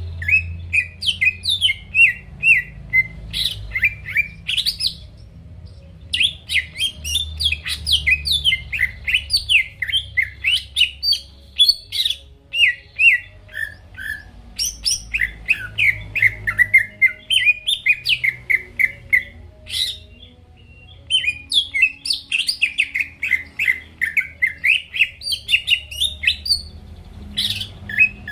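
Greater green leafbird (cucak ijo) singing a rapid, varied run of high chirps and quick up-and-down whistled notes, with brief pauses about five and twenty seconds in.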